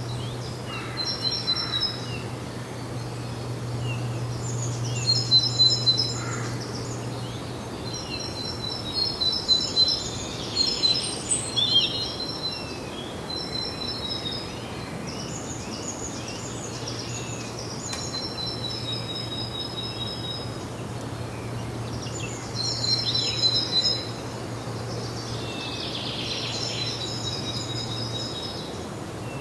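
Songbirds singing, repeating short high trilled phrases every few seconds, over a steady low hum that stops near the end.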